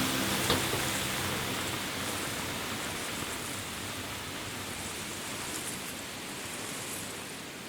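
A steady, even hiss, like rain or rushing water, slowly fading out, with the last notes of music dying away in the first second.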